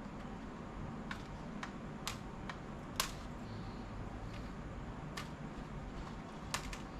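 Scattered light clicks and taps, about eight in all, of a laptop's plastic parts being handled during disassembly. The sharpest is about three seconds in and two come close together near the end, over a steady low hum.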